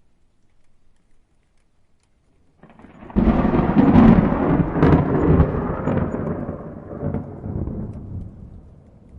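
A peal of thunder. It starts about a third of the way in, swells suddenly into a loud rumble with a few sharper cracks, and rolls away over several seconds.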